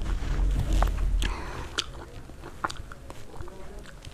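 Close-up chewing of a spoonful of chickpea curry (chole), with scattered wet mouth clicks and smacks. A low rumble underlies the first second or so.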